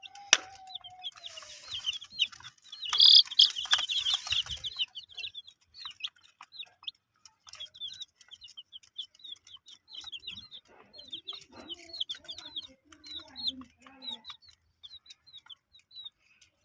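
Baby chicks peeping: a fast, near-continuous run of short, high chirps. Low clucking comes in briefly near the end. In the first few seconds there is a loud stretch of rustling and knocks.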